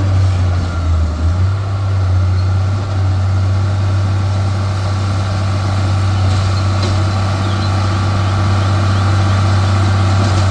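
Heavy diesel engine of earthmoving machinery running steadily at a constant speed, a low drone with no revving.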